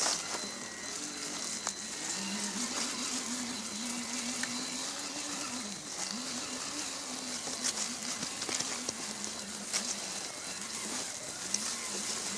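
Electric drive motor and gearing of a Vaterra Chevrolet Blazer K5 RC crawler whining at crawling speed, its pitch stepping up and down with the throttle, over a hiss with scattered clicks and crackles.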